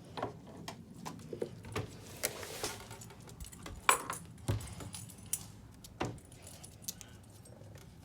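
A dog's metal collar tags jingling, with scattered light clicks and knocks as it moves about at a pet door; the sharpest knocks come about four seconds in.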